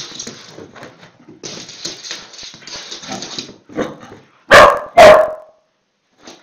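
Dog barking twice, two loud barks about half a second apart, after a few seconds of softer scuffling noise.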